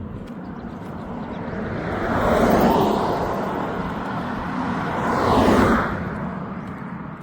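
Two vehicles passing close by, one after the other, each a swell of tyre and engine noise that builds and fades away. The first is loudest about two and a half seconds in, the second about five and a half seconds in.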